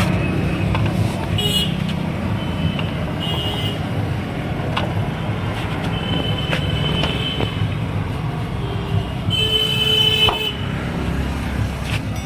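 Road traffic running steadily, with vehicle horns tooting several times; the longest and loudest honk comes near the end.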